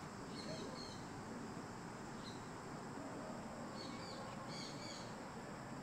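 Faint outdoor background with small birds giving soft, high chirps in short pairs, once about half a second in, briefly at about two seconds, and again about four to five seconds in.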